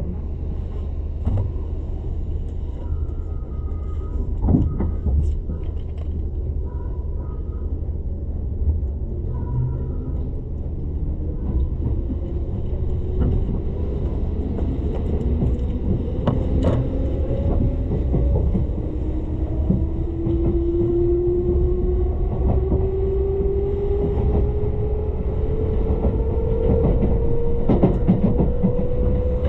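Tobu Ryōmō limited express train running, heard from inside the car: a steady low rumble with scattered knocks from the wheels on the rails. From about twelve seconds in, a whine from the running gear rises slowly in pitch as the train picks up speed.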